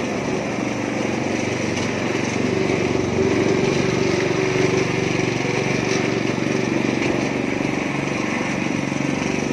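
Small petrol engine of a mini concrete mixer running steadily.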